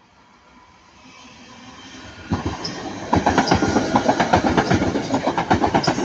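Three coupled Class 323 electric multiple units passing, wheels clattering in a rapid clickety-clack rhythm. The sound builds as the train approaches and turns loud a little over two seconds in.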